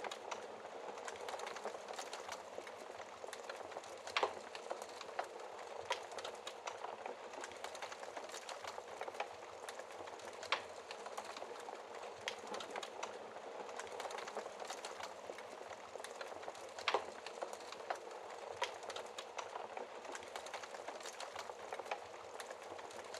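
Wood fire in a fireplace crackling: a steady hiss with a constant scatter of small snaps and a few louder pops.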